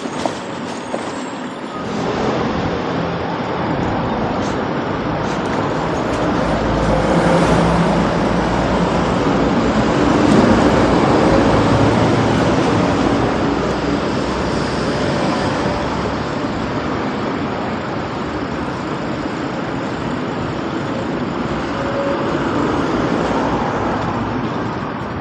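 Street traffic: motor vehicles driving by, with a heavy vehicle's engine rumbling close past and loudest about ten seconds in.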